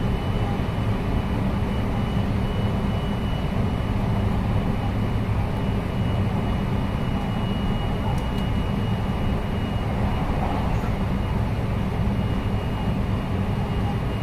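Running sound of a JR West 223 series 6000-subseries electric train heard from inside the car: a steady rumble of wheels on rail with a thin steady high whine over it.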